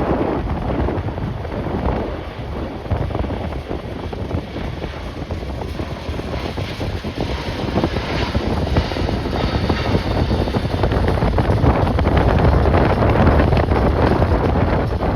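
Strong gusting wind buffeting the microphone: a heavy low rumble that eases for a few seconds and then swells louder toward the end, with a faint high whine in the middle.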